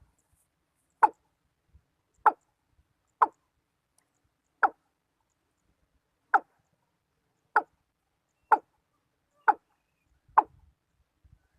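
Watercock calling: a series of nine short, hollow notes, about one a second.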